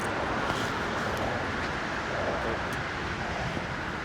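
Steady road traffic noise, with a few faint light clicks.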